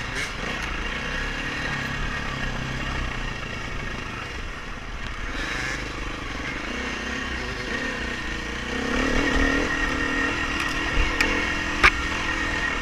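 Dirt bike engine running during a race ride. The engine note rises and gets louder about nine seconds in, with a couple of sharp knocks near the end.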